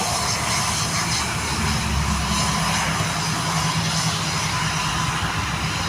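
Jet aircraft engines running with a steady rushing noise and a low hum underneath.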